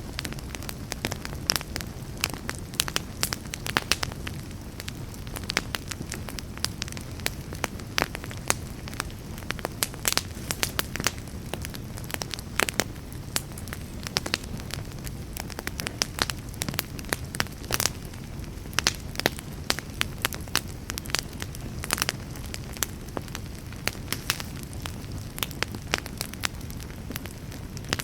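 Wood fire burning in a fireplace, with a steady low rumble under frequent irregular crackles and pops.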